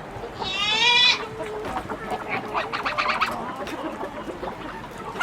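Chickens calling: one loud, drawn-out call rising in pitch about half a second in, followed by a run of short clucks.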